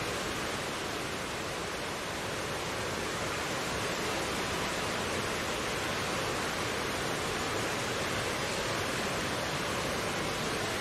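Mountain stream flowing steadily: a continuous, even rush of water.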